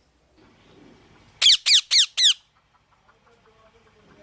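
Pet parrot giving four quick, loud, shrill calls in a row about a second and a half in, each one sliding down in pitch.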